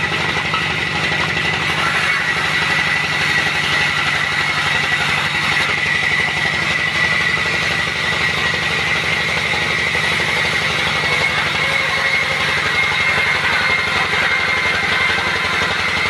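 Sawmill machinery running steadily: an engine's rapid, even pulsing under a constant high whine that rises slightly in pitch near the end.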